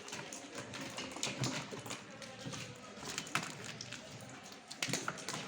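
Irregular clicks and knocks of hands and tools working on metal parts, the sharpest about three seconds in and again near the end.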